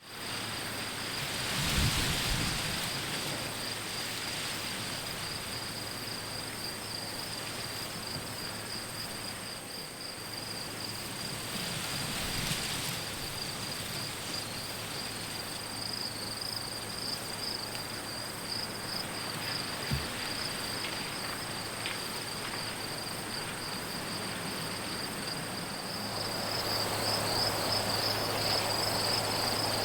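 Field insects trilling in a steady, high, pulsing chorus, with a second thinner high tone above it. Brief rushes of wind rise about two seconds in and again around twelve seconds, and the background hiss grows louder near the end.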